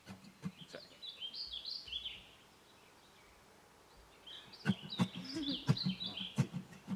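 A songbird singing two warbling phrases of quick, stepped notes, with a quiet pause between them and a few sharp clicks during the second phrase.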